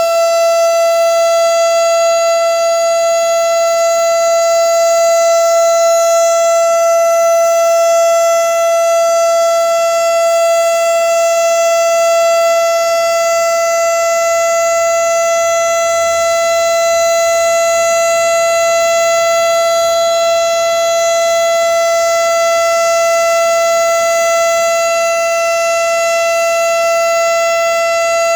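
Outdoor tornado warning siren sounding a tornado drill: one loud, steady tone held without rising or falling.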